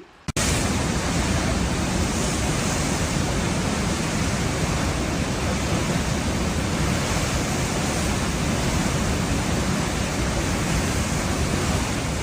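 Floodwater rushing in a torrent: a loud, steady, even rush of water that cuts in suddenly just after the start and runs on unchanged.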